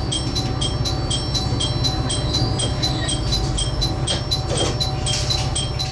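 Low steady rumble of a JR Shikoku diesel railcar on the Dosan Line, with a short high electronic beep repeating about twice a second over it.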